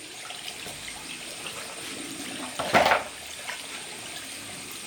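Water running steadily, with one brief louder noise nearly three seconds in.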